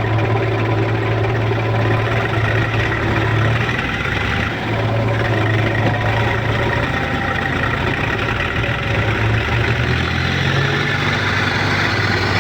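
Heavy diesel engine running steadily at a low hum, easing briefly about four and a half seconds in and wavering in pitch near the end.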